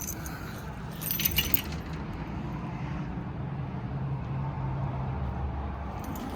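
A bunch of keys jingling briefly about a second in, over a steady low hum.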